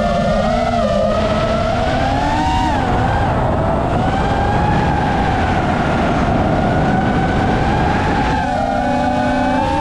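7-inch FPV quadcopter's motors and propellers whining in flight, the pitch gliding up and down with throttle changes, over a steady rushing noise. Near the end the whine splits into several separate tones.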